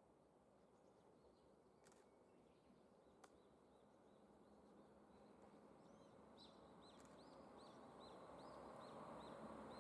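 Quiet outdoor ambience with a bird repeating short chirps, about three a second, from the middle on. Underneath, the low rumble of an approaching 2000-series diesel train grows steadily louder toward the end.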